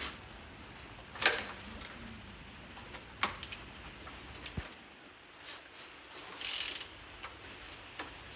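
Scattered sharp metallic clicks and knocks from a VW 1.9 TDI BKC engine being turned over by hand, the loudest about a second in, with a brief rustle near the end.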